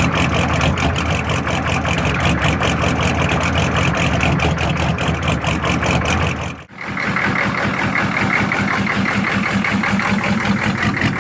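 GM 6.5 litre Detroit Diesel V8 idling just after a cold start at near-freezing temperature, with a steady, even diesel clatter. The sound drops out briefly about two-thirds of the way through, then the idle carries on.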